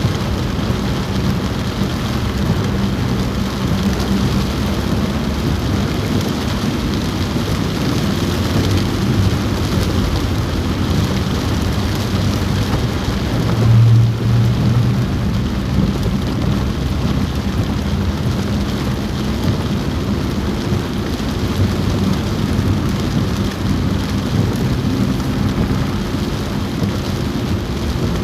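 Heavy rain falling steadily on a car roof, heard from inside the car while it is driving, over a low steady drone from the car. About halfway through, a brief louder low hum rises and fades.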